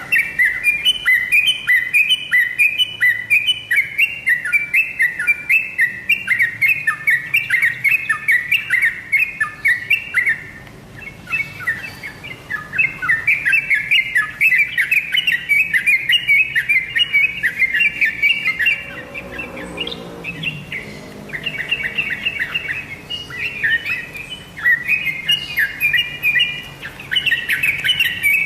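Sooty-headed bulbul calling: long runs of rapid, repeated high chirping notes, several a second, broken by short pauses about ten seconds in and again around twenty seconds.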